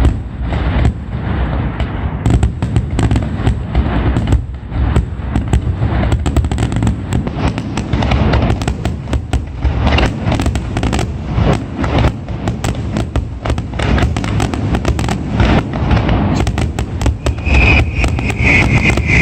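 Fireworks display: a dense, unbroken barrage of bangs and booms over a low rumble, with a steady high whistle joining near the end.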